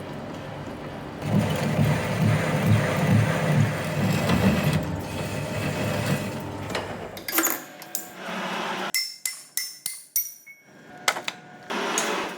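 Metalworking machine running on a large steel pin, with a pulsing low rumble for several seconds. Then it stops, and a series of sharp metal clinks and taps follows, some leaving a brief ringing tone.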